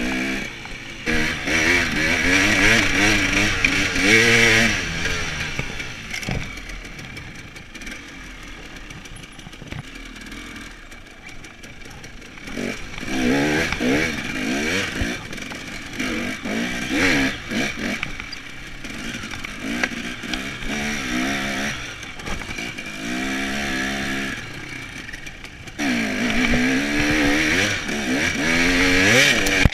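Dirt bike engine revving up and down on an off-road trail, the pitch climbing and dropping as the throttle is opened in several bursts. Quieter stretches come between the bursts, the longest about a quarter of the way in.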